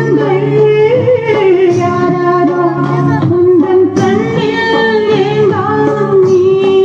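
A high female voice singing a song with sustained, wavering notes over musical accompaniment.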